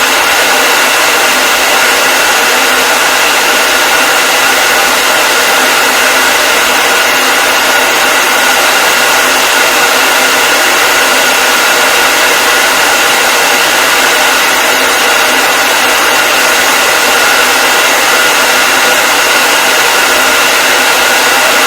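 Electric hair dryer running continuously: a steady, unchanging rush of air with a faint constant whine from the motor and fan.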